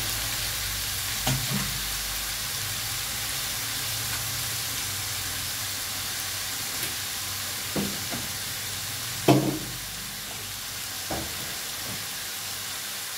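Chicken wings frying in hot oil in a black wok, a steady sizzle, with a few short knocks against the pan, the loudest about nine seconds in.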